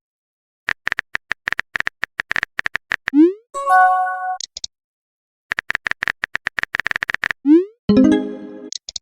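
Chat-app sound effects: two runs of rapid typing clicks, each followed by a quick rising swoop and a short electronic chime as a message appears.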